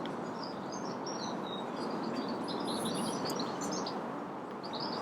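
Small birds chirping and twittering, many short calls, over a steady background hiss of outdoor ambience.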